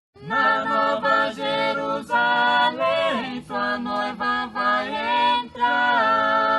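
Several voices singing together a cappella, a line of short sung notes that settles into a long held chord about six seconds in.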